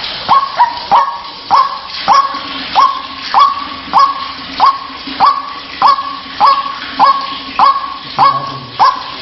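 White-breasted waterhen (ruak-ruak) calling: a steady run of short, rising 'kruwaak' notes, nearly two a second. A faint steady hum lies underneath.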